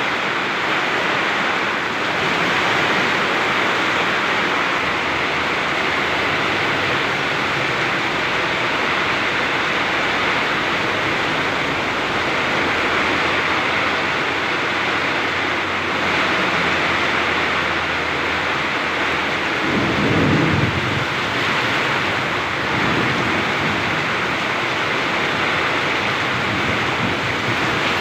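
Very heavy rain pouring steadily in a storm, with a short low rumble of thunder about twenty seconds in.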